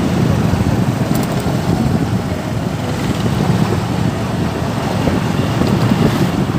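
Steady rumble of a moving vehicle mixed with wind buffeting the microphone, heaviest in the low end.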